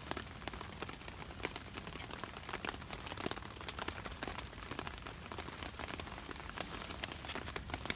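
Rain falling, with many irregular drops striking a surface close by.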